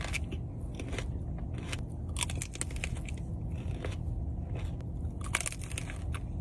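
A person chewing and biting food close to the microphone, with irregular crisp crunches and crackles, the sharpest about five seconds in.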